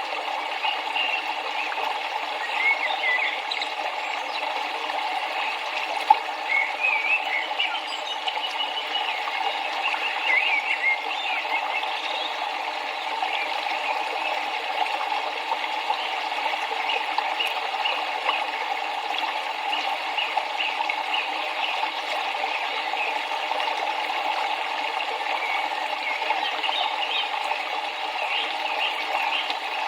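Steady rush of river water, with small birds chirping now and then over it, in clusters near the start, in the middle and near the end.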